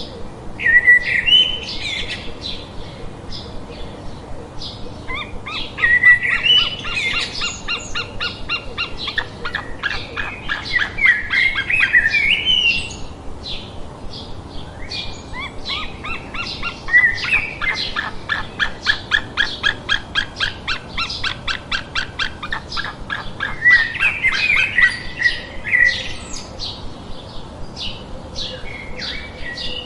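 Several birds singing and chirping at once, with long runs of quick repeated chirp notes and louder song phrases breaking in now and then.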